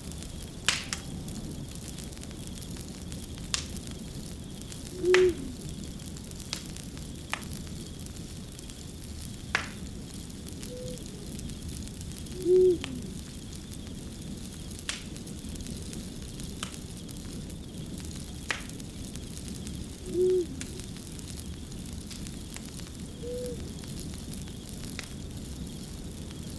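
Wood fire crackling, with a steady hiss and irregular sharp pops every second or two. A short, low call sounds three times, about every seven and a half seconds, louder than the fire, with a few fainter, slightly higher calls in between.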